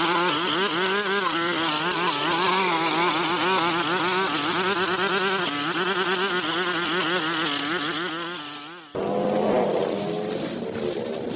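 Motor-driven pressure washer running with a buzzing, constantly wavering pitch over the hiss of the water spray. It cuts off abruptly about nine seconds in.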